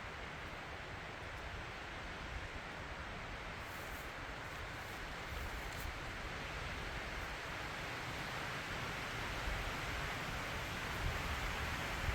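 Wind blowing through forest trees as a steady rushing noise that slowly builds in strength, with low rumble from gusts.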